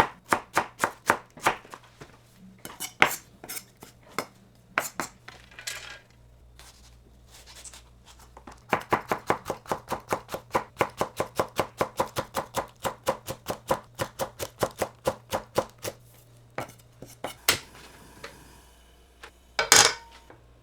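Kitchen knife chopping on a cutting board in quick, even strokes, about four a second, in runs with pauses between them. A louder clatter near the end.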